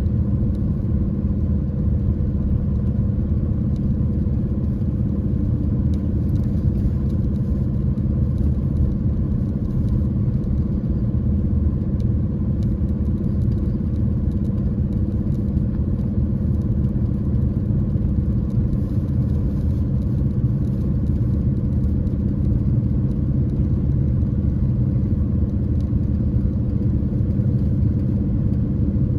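Car driving uphill: a steady engine hum over a continuous low road rumble, unchanging throughout.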